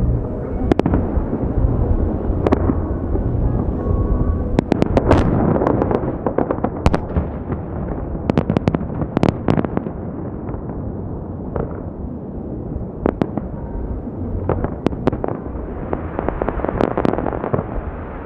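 Fireworks salute: a string of sharp bangs from bursting shells over a continuous crackle and low rumble, with dense clusters of reports about five and nine seconds in.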